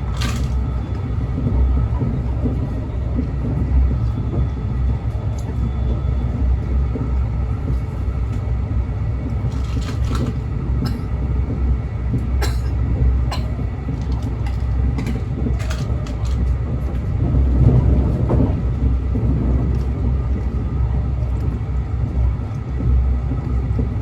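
A train rumbling steadily, with scattered sharp clicks and knocks partway through.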